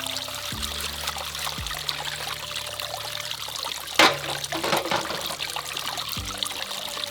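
Water trickling and pouring steadily, with one sudden sharp knock or splash about four seconds in.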